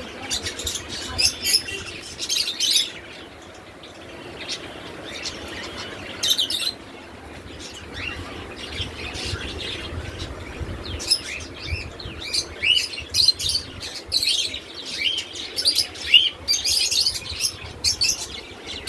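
Many small birds chirping and tweeting in quick, high calls, with a thinner patch in the middle and dense, overlapping chirping from about eleven seconds in.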